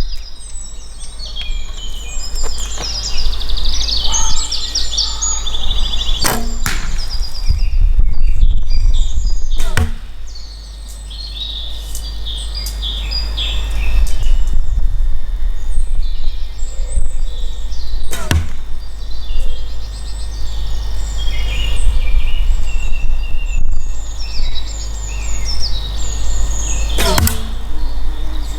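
Arrows shot from a bow into a target, four sharp cracks spaced several seconds apart. Birds chirp throughout over a steady low rumble.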